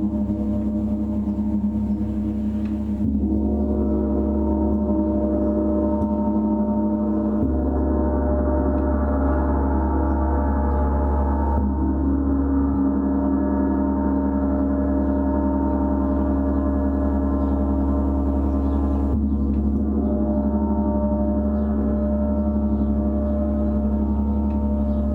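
Gongs played continuously in a dense wash of overlapping, sustained ringing tones over a deep hum. The blend of tones shifts every few seconds as the gongs are played again, with no break in the sound.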